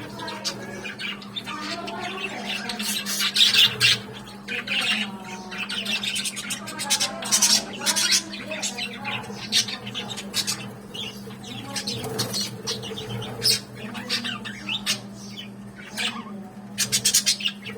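Many budgerigars chattering and squawking at once, a dense, irregular stream of harsh calls and chirps, over a steady low hum.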